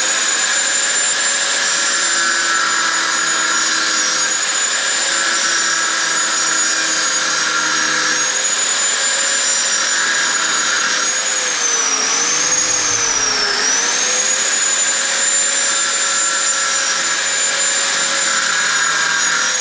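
Power grinder spinning at full speed to clean up a weld on a motorcycle exhaust pipe, with a steady high whine. Twice, just past the middle, the whine dips in pitch and recovers as the grinder is loaded against the metal.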